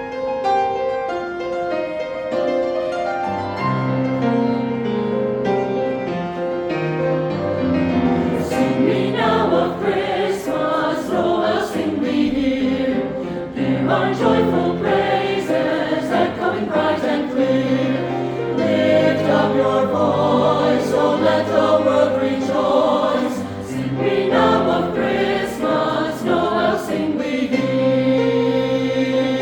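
Choir singing with piano accompaniment. The first several seconds are mostly held notes over a stepping bass line; from about eight seconds in, the singing grows fuller and busier.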